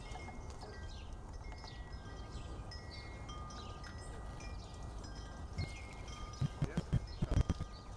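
Wind chimes ringing, several steady tones at different pitches overlapping, over low wind rumble on the microphone. From about six seconds in, a quick run of knocks and rustles from handling.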